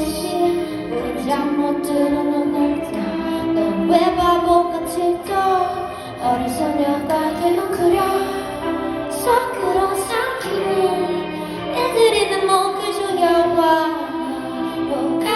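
A singer performing a song live over instrumental backing, the voice gliding between and holding sustained notes.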